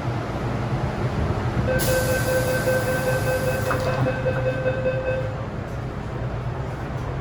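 MTR M-Train door-closing warning: a steady electronic tone sounds for about three and a half seconds while a loud hiss rushes through the first two seconds of it as the doors shut. A low train rumble runs underneath.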